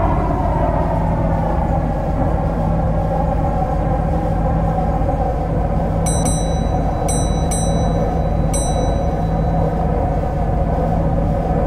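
An MTR Kwun Tong line C-Train running between stations: the traction motor whine falls in pitch at first and then holds steady over the running rumble and a steady low hum. Four short, high-pitched beeps sound about six to nine seconds in.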